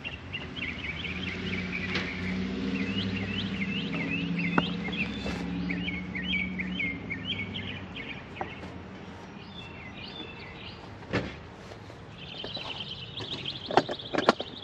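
Small birds chirping repeatedly in quick short notes, over a low steady hum during the first half. A single sharp knock comes about eleven seconds in.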